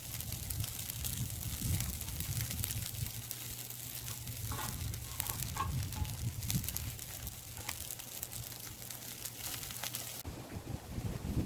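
Wood campfire crackling, with many small sharp pops scattered irregularly.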